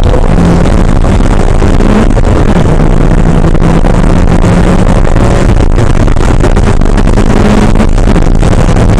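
Porsche 968's 3.0-litre four-cylinder engine running hard at racing speed, loud and steady over heavy wind and road noise. The engine note climbs and falls back twice, about two and a half seconds in and near the end.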